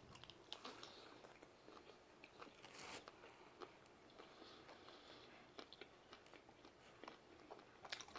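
Faint mouth sounds of a man chewing a bite of BBQ brisket pizza: scattered small wet clicks and smacks, with a slightly louder cluster about three seconds in and again near the end.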